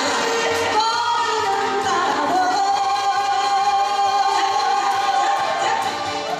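Singing with instrumental accompaniment: a voice sings short phrases, then holds one long, slightly wavering note for about three seconds before moving on.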